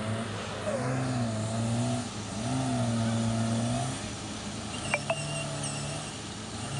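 Off-road vehicle engine revving up and holding several times as it works along the track, with two sharp clicks about five seconds in.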